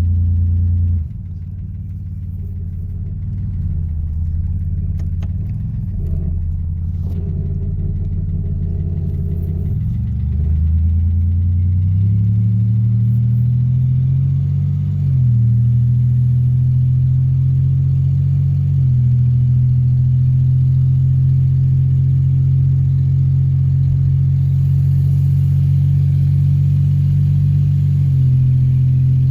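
1984 Oldsmobile 4.3 L V6 diesel engine driving the car. The engine note drops about a second in, climbs steadily through the middle with a step partway up, then settles into a steady cruise. The exhaust is loud because it needs a new pipe and muffler.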